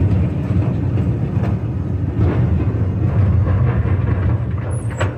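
Rail car riding along the track: a steady low rumble of wheels on rails, with a few light clicks and a sharper click near the end.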